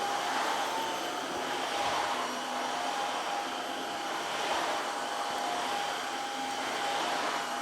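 Dreame H11 Max cordless wet-dry floor cleaner running: a steady motor whine over a hiss of suction, swelling a little in loudness now and then.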